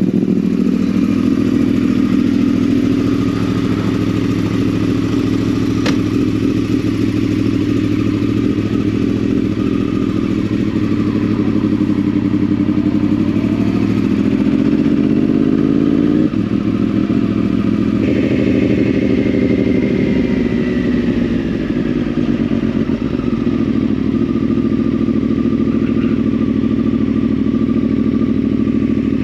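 2010 Yamaha R1's crossplane inline-four with a Yoshimura exhaust, running loudly and steadily; its note rises from about twelve seconds in and drops off suddenly at about sixteen seconds, then settles into a steady run again.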